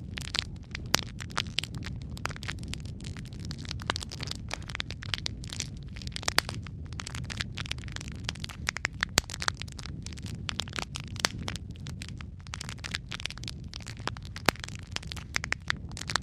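Wood fire crackling in a fireplace: a steady low rumble of flames under many irregular sharp pops and snaps.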